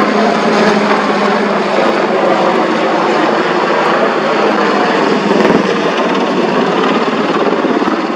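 AH-64E Apache attack helicopter flying, its rotors and twin turboshaft engines running loud and steady.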